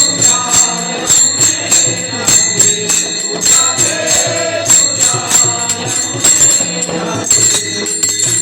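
Devotional bhajan: singing over a steady quick beat of small hand cymbals, with a held drone beneath.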